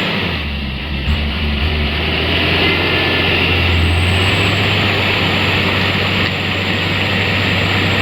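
Mitsubishi Canter light truck's diesel engine running hard under throttle as the truck strains to climb an incline it is stuck on, a steady low drone held at fairly even revs.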